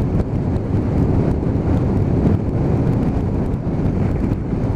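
Motorcycle riding noise: a steady rumble of engine and wind buffeting the microphone, with no distinct events.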